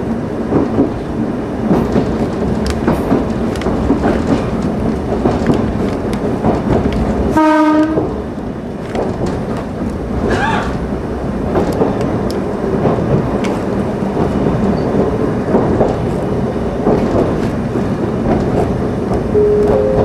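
Kumamoto Electric Railway 5000 series 'Green Frog' electric car running along the track, heard from the driver's cab as a steady rumble and rattle. About seven seconds in, a short horn blast of about half a second sounds. Near the end, brief steady tones come in.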